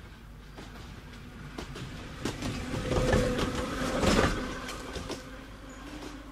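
Kambara Railway electric railcar No. 41 passing close by, its wheels clattering over rail joints in a run of sharp clicks. The clatter grows to its loudest about three to four and a half seconds in, then fades.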